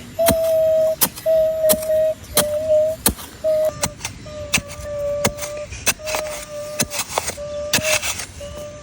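A steady electronic-sounding tone repeated in beeps about half a second to a second long, with short gaps, mixed with sharp clicks.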